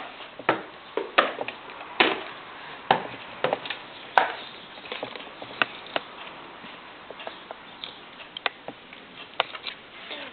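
Pieces of raw pumpkin being chewed: irregular crisp clicks and crunches, a few louder ones in the first half.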